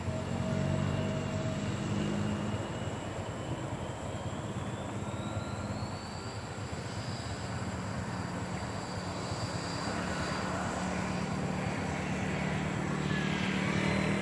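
Bombardier CRJ1000 jet airliner's turbofan engines running steadily. A thin whine rises in pitch over the first several seconds, then holds.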